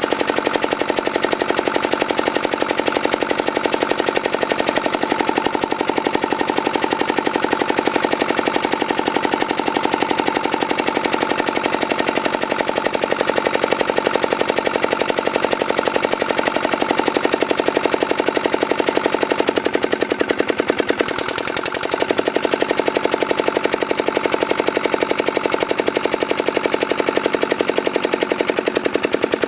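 Lister SW1 single-cylinder water-cooled stationary diesel engine running steadily with a fast, even beat of firing strokes. It runs quite fast because its governor springs are too heavy.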